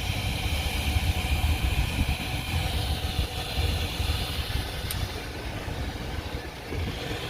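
A motor running steadily with a low rumble and a higher hiss, the hiss easing off after about five seconds.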